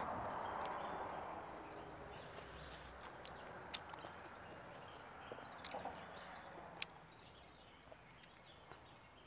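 Close-miked eating sounds: chewing and small wet mouth clicks as a bite of braised rib is worked. These are loudest in the first second and then fade, with faint bird chirps scattered in the background.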